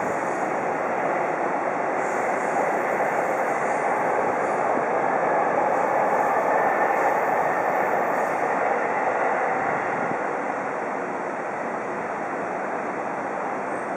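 A train passing out of view: a steady rushing rumble of wheels on rail that swells about halfway through and eases off after about ten seconds.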